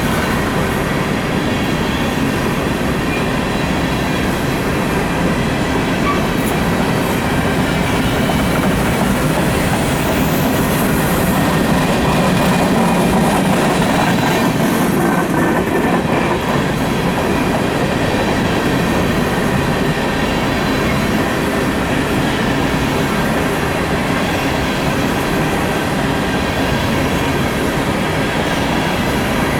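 Loaded coal train's freight cars rolling past, a steady loud rumble and rattle of steel wheels on the rails with a clickety-clack over the joints and faint steady high-pitched tones.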